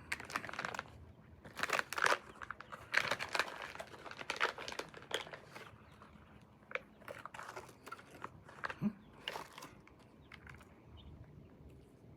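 Plastic MRE food packaging being handled, crinkling and rustling in irregular bursts, busiest in the first half and sparser toward the end.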